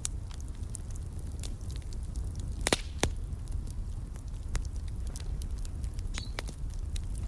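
Wood fire in a fireplace crackling, with scattered sharp pops and two louder pops about three seconds in, over a low steady rumble.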